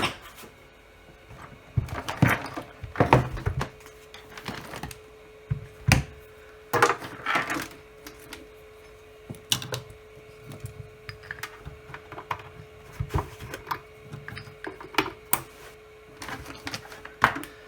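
Irregular clicks, knocks and clatter of objects being picked up, moved and set down on a workbench, with cable and plug handling. A faint steady hum comes in about four seconds in and carries on under the knocks.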